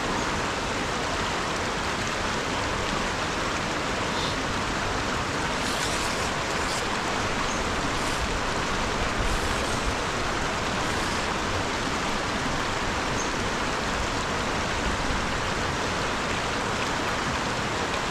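River water rushing steadily over rocks, an even hiss, with a few faint clicks about midway.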